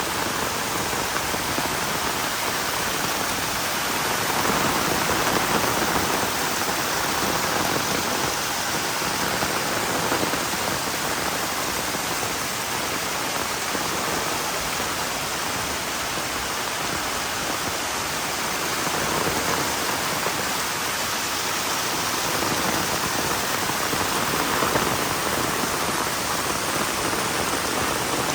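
Heavy rain falling steadily, a dense, even hiss of drops on the ground and surfaces.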